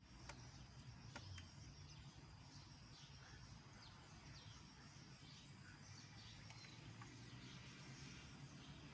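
Faint bird chirps, short falling notes repeated every second or so, over low background noise, with a few sharp ticks in the first second and a half.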